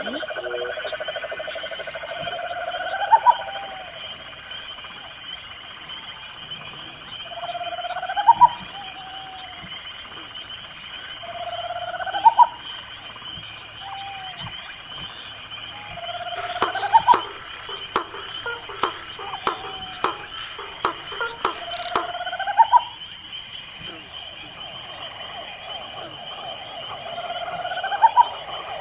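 Night chorus of crickets making a steady, high-pitched drone. About every two to five seconds an animal gives a short call that rises in pitch at its end. A run of rapid clicks comes in about two-thirds of the way through.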